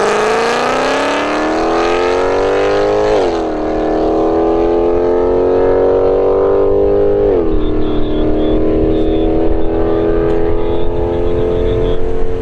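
Mercedes-Benz C63 AMG's 6.2-litre V8 with a resonator-deleted exhaust accelerating hard, its pitch climbing through the gears. Two upshifts, about three and seven seconds in, each drop the pitch suddenly before it rises again.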